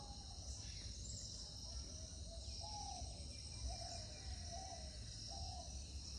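Steady high insect chirring, like crickets, with a series of about five short, soft bird calls in the middle.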